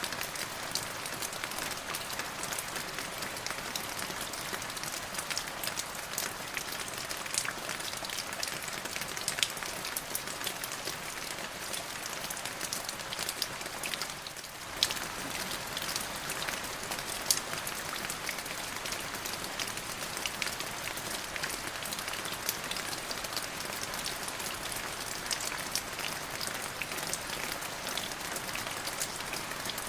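Steady rain falling on a surface, a constant hiss dotted with many sharp individual drop ticks. The sound dips briefly about halfway through.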